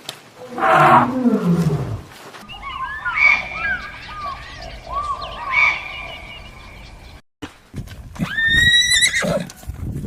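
Horse whinnying: a call falling in pitch about a second in, and a high-pitched whinny that drops at its end near the finish. Short high chirps run between the two calls.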